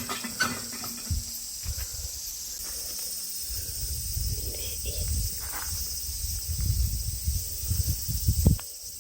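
Cicadas shrilling steadily in a high-pitched drone. From about three seconds in, a low rumble and a few knocks join it, growing louder until a sharp knock near the end.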